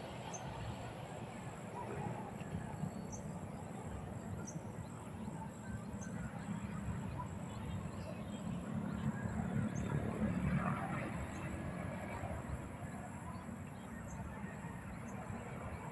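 Birds calling from a tower: short, high chirps every second or so over a steady low rumble of background noise, with a louder stretch of calls about ten seconds in.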